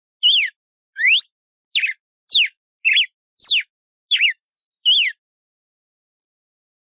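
Red-cowled cardinal singing: a string of short, clear whistled notes, each a quick falling, rising or arched slur, about two a second, stopping well before the end.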